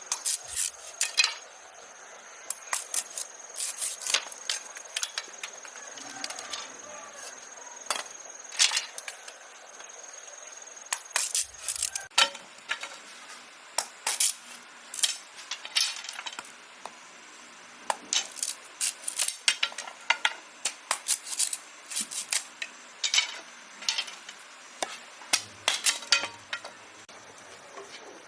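Irregular sharp clicks and light knocks of small hard objects being handled, a few a second at their busiest, over a thin steady high tone that stops about ten seconds in and returns near the end.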